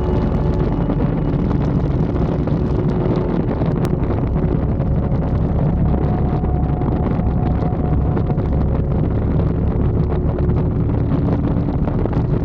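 Harley-Davidson Dyna's V-twin engine running steadily on the move, with wind buffeting the microphone.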